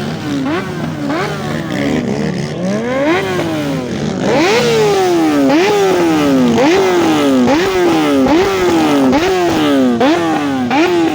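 Yamaha Banshee 350's two-stroke engine being revved over and over. The pitch jumps up with each throttle blip and falls back, a couple of times at first and then in a steady rhythm of a little more than one blip a second.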